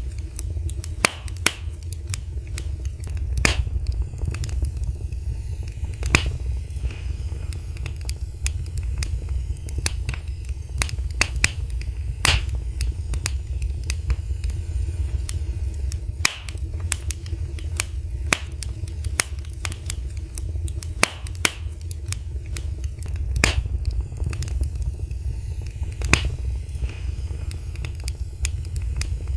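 Wood fire burning in a fireplace: irregular sharp crackles and pops, several a second with louder snaps every few seconds, over a steady low rumble of the flames.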